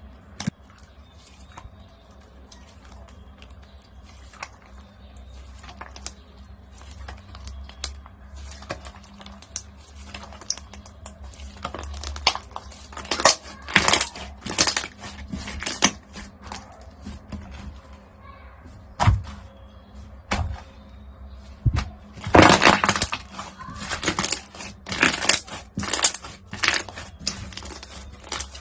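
Crunchy slime being pressed and squeezed by hand, giving bursts of crackling and popping. The crackles are sparse at first, come thick about twelve seconds in, and again from about twenty-two seconds on.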